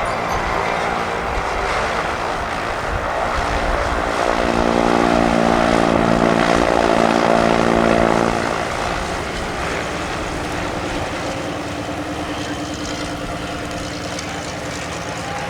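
Oracle Challenger III aerobatic biplane's engine and propeller running at low power while taxiing, growing louder about four seconds in and dropping back about eight seconds in.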